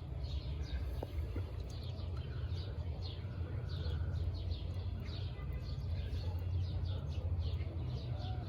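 A small bird chirping over and over, short falling chirps at about two to three a second, over a steady low rumble.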